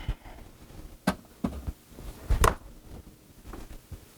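A few short knocks and low thumps of things being handled and set down in a kitchen, with quiet room noise between them.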